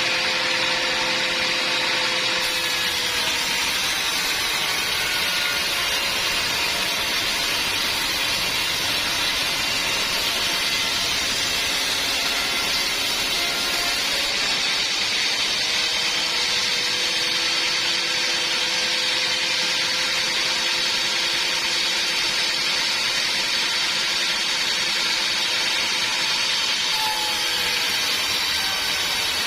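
Sawmill band saw machinery running steadily: an even, unbroken mechanical noise with a faint hum underneath that drifts slightly in pitch.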